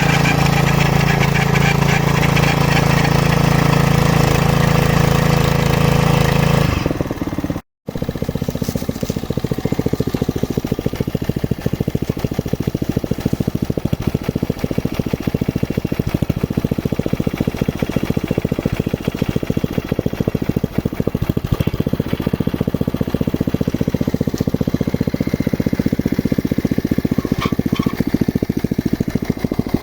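Exploration drilling rig running: a steady machine sound with a low drone, broken by a brief dropout about eight seconds in, then running on with a fast, even rattle.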